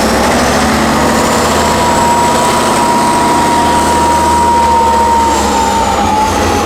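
A heavy 6x6 trial truck's engine running hard and steadily. A thin high whine rides over it and drops away near the end.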